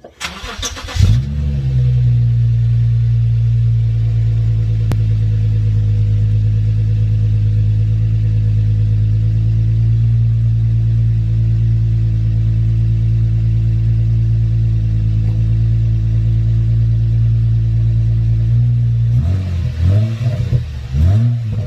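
Subaru Outback 3.6R's flat-six engine, with the muffler deleted, starting: a brief crank, it catches about a second in, and its idle settles into a steady run. Near the end the throttle is blipped a few times in quick revs.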